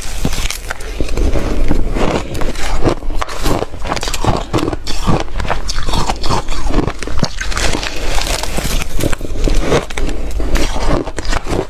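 Close-miked crunching and chewing of ice: a dense, uneven run of sharp crunches.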